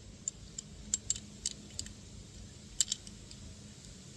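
Small metal parts and tools being handled during carburetor work, clinking in about eight light, sharp clicks at irregular spacing, the loudest pair about three seconds in, over a faint steady low hum.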